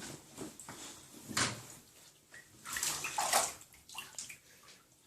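Water splashing and sloshing in a bathtub in a few short bursts, the main ones about a second and a half in and around three seconds in.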